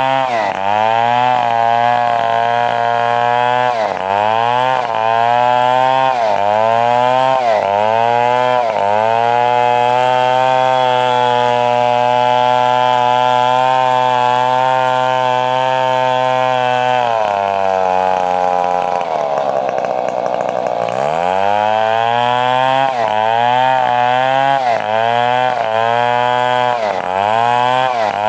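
Stihl 070 two-stroke chainsaw sawing a coconut palm trunk into rafters. The engine runs at high revs, its pitch dipping and recovering about once a second, then holds steady for several seconds. About two thirds of the way through it drops low before revving back up into the same dipping pattern.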